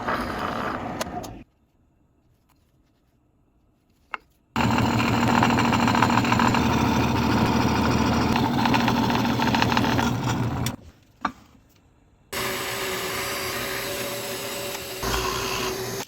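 Electric woodworking power tool running in two spells, separated by brief stops, with a steady motor hum under the cutting noise.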